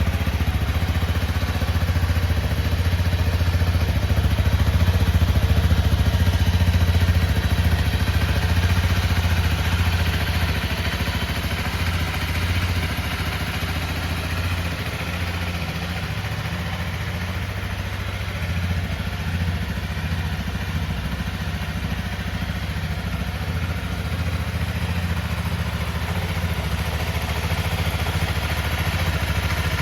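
Honda CRF250M's 250 cc single-cylinder four-stroke engine idling steadily, slightly quieter through the middle stretch.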